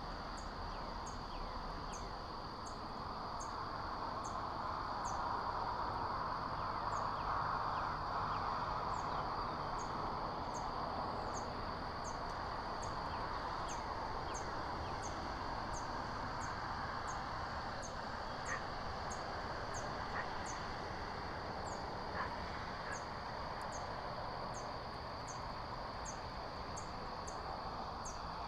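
Outdoor ambience at a nest camera: a steady rushing noise, with a short high chirp repeated a little more than once a second throughout.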